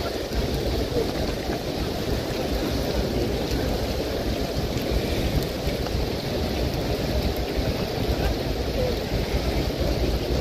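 Heavy rain falling steadily on a wide stone courtyard, an even hiss, with wind rumbling on the microphone.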